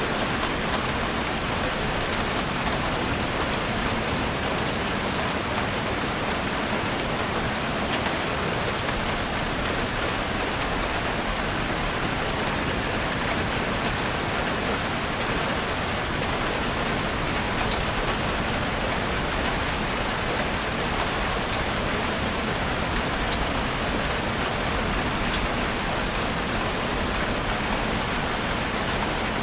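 Heavy rain falling steadily on a roof: a dense, even hiss with many fine drop ticks, unchanging throughout.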